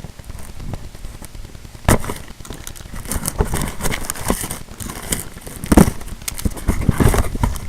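Mail package being handled and opened: crackling and crinkling of packaging with many small clicks, and two sharp snaps, about two seconds in and near six seconds.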